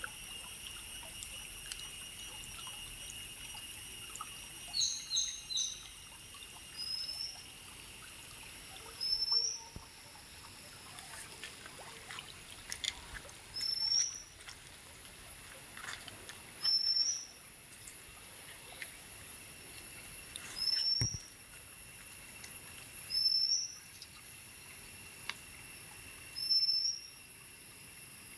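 A bird repeating a short, high, rising call about every three seconds, with a quick run of three high notes about five seconds in. Under it runs a steady high-pitched insect drone that fades after about nine seconds.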